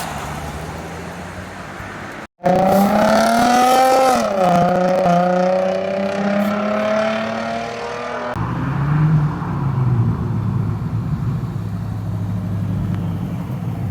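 Car engines as modified cars drive off: a low engine note, a sudden break about two seconds in, then a car revving, its pitch rising and falling back. This breaks off abruptly after about eight seconds into a deeper steady engine note.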